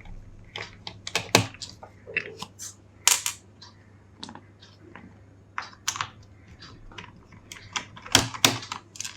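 Irregular light clicks and taps of a small screwdriver and tiny screws being worked out of a laptop's plastic back enclosure and set down, some clicks louder than others.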